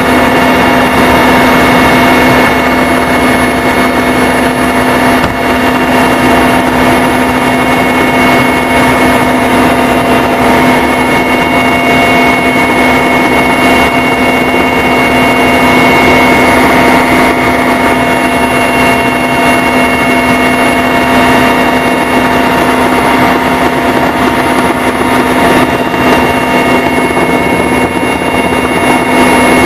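Loud, steady engine drone with several constant tones over a noisy hiss, unchanging throughout.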